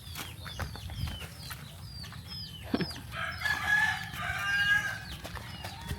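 A rooster crows once, a long call from about halfway in, over a run of short high falling chirps that repeat a few times a second.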